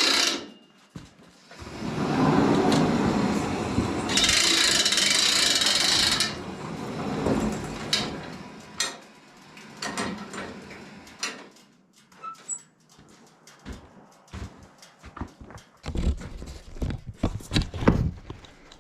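Woodland Mills HM122 band sawmill running loud for a few seconds, then stopping. It is followed by scattered knocks and clatter of sawn lumber being handled.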